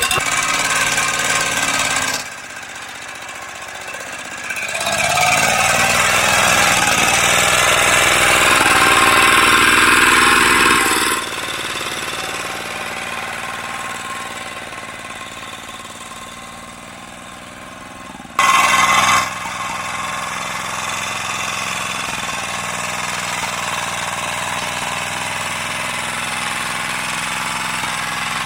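Walk-behind tractor engine running, with sudden shifts in loudness and tone several times: louder from about 5 to 11 seconds in, and a short loud burst at about 18 seconds.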